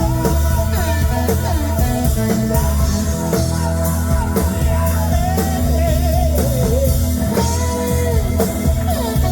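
Live band music: electric guitar, bass and drum kit, with a lead melody line bending up and down in pitch over them.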